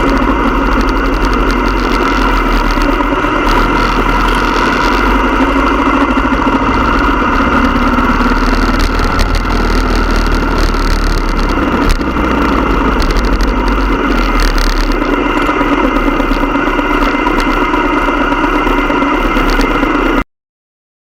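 Motorcycle engine running steadily at an even speed, over a heavy low rumble. The sound cuts off abruptly near the end.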